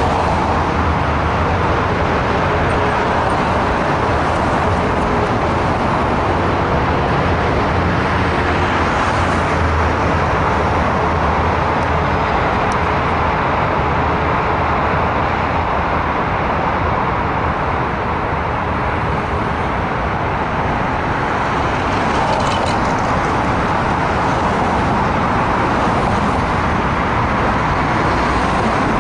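Dense, steady traffic on an urban expressway: a continuous wash of engine and tyre noise from many vehicles. A brief high squeal comes about three-quarters of the way through.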